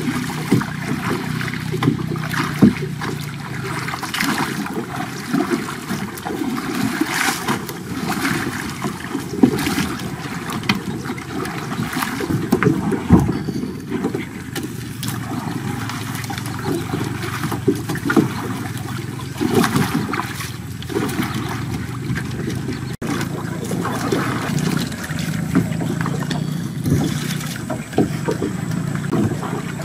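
A boat under way: a steady motor hum with water noise and scattered knocks.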